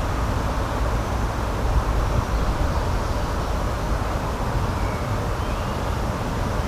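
Steady, even rushing noise of outdoor nature ambience, strongest in the low and middle range, with a faint short bird chirp or two about five seconds in.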